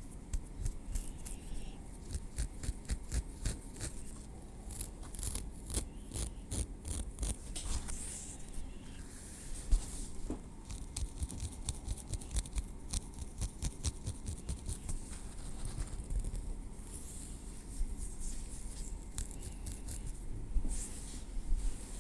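Metal tweezers working through hair and over the scalp: many small sharp clicks and light scrapes, thickest in the first several seconds.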